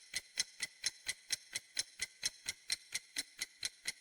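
Clock-style ticking sound effect: sharp, even, bright ticks at about four to five a second, the kind of steady tick used as a countdown timer.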